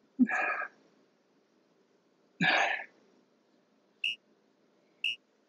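Two sharp, forceful exhalations of effort about two seconds apart during a hard core exercise on a stability ball, then two short high beeps a second apart from an interval timer counting down the end of the work round.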